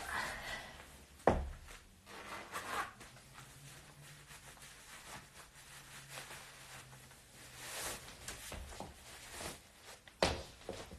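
Indistinct rustling and handling noises, with a sharp knock about a second in and another near the end.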